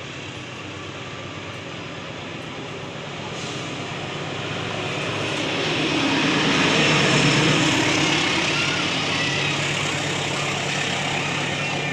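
A diesel-hauled train passing close by. The engine sound grows louder, peaks and drops in pitch about seven seconds in as the locomotive goes past, then a steady rumble continues.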